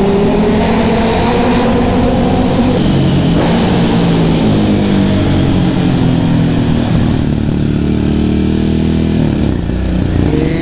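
Ducati Hypermotard 1100's air-cooled L-twin engine pulling hard through a tunnel, heard from the bike itself. The revs climb, ease off in the middle, then pick up again near the end.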